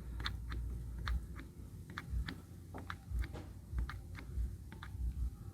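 Light metallic clicks, about two or three a second, from a brake caliper piston compressor tool being screwed down and set straight against a Toyota Prius front brake caliper.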